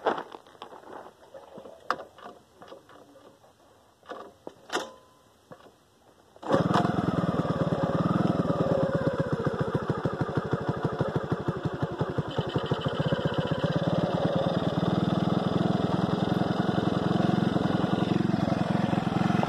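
Pagsta 125cc chopper's Lifan-clone single-cylinder four-stroke engine kick-started cold. A few sharp knocks from kicking it over come first, then about six and a half seconds in it catches and settles into a steady idle.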